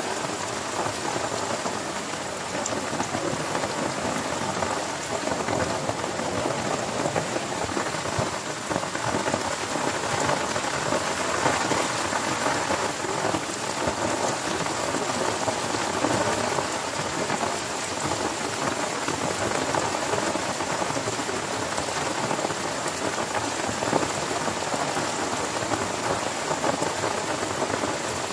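Heavy rain falling steadily on a tent, a dense even patter that swells a little in places.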